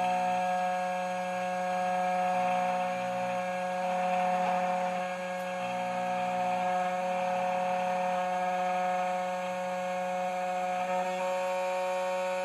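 CNC key cutting machine running, its spindle and 1.5 mm cutter milling the cuts into a Volkswagen HU162T key blank. A steady whine with a low hum that swells and eases every couple of seconds as the cutter moves along the blade.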